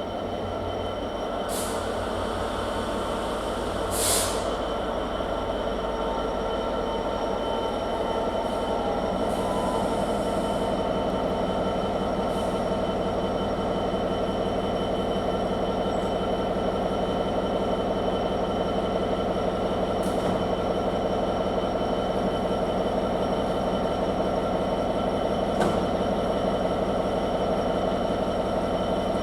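Diesel locomotive hauling a train, its engine droning steadily and slowly growing louder, with a few brief sharp squeals from the wheels or track, the loudest about four seconds in.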